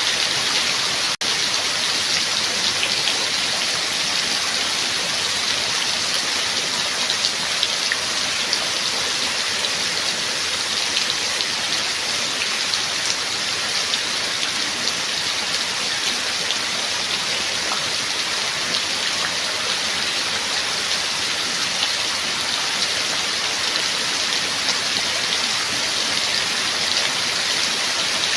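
Rain falling steadily: an even hiss with a fine patter of individual drops, broken by a momentary dropout about a second in.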